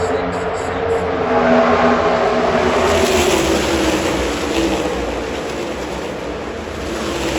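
NASCAR Cup Series cars' V8 engines running at full throttle as the cars race past. The engine pitch drops about two to four seconds in as they go by.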